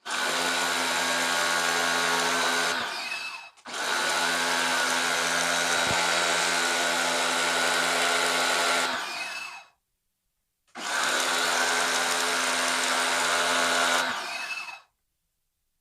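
Electric high-pressure washer running in three bursts with a steady motor hum and spray hiss. Each burst stops, and the motor winds down with a falling pitch.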